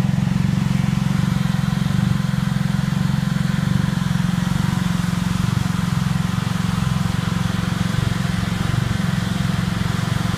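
Can-Am Spyder three-wheeled motorcycle's engine idling steadily.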